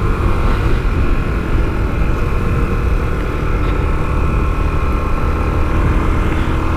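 Honda XR250L single-cylinder four-stroke engine running at a steady pace while riding, over a heavy low wind rumble on the microphone.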